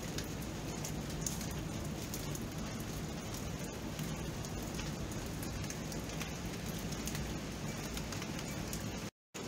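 Steady rain, a continuous hiss dotted with many small sharp drop ticks. Near the end the sound cuts out completely for a moment, then resumes.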